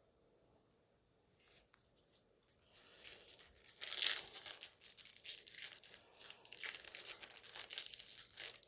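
Foil trading-card pack wrapper crinkling and tearing, starting about two and a half seconds in, with the loudest rip about four seconds in.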